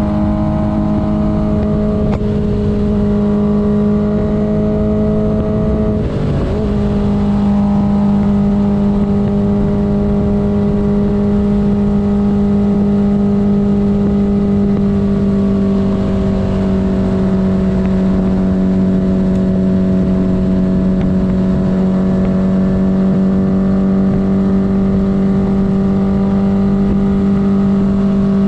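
1972 Honda CB500's inline four-cylinder engine running steadily under way. There is a brief dip in the engine note about six seconds in, and the pitch eases slightly lower later on.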